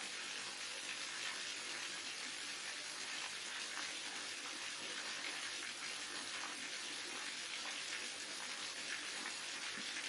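Waterfall: water falling and splashing in a steady, even rush with a hissy top.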